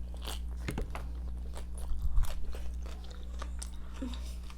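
Close-up chewing and crunching of crisp food, a string of irregular sharp crunches over a steady low hum.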